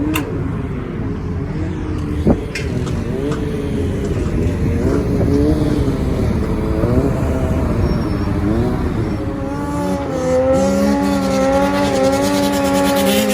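Several motorcycle engines revving at once, their pitch rising and falling, with one held at a steady high pitch near the end. A single sharp bang about two seconds in.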